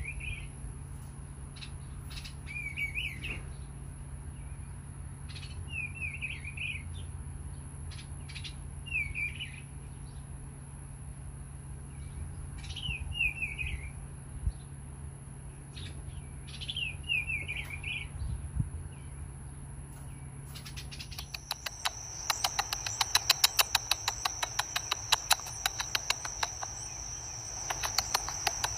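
A small bird giving short chirping calls, repeated about every three to four seconds. About twenty seconds in, a rapid, pulsing insect chirr, cricket-like, takes over and becomes the loudest sound.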